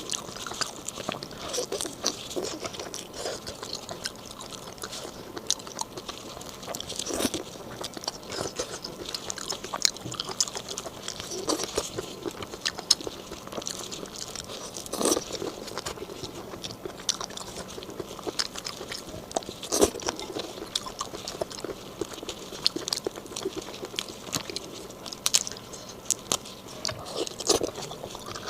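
Close-miked eating of raw marinated black tiger shrimp: crunching, biting and wet chewing, with many sharp crackles throughout.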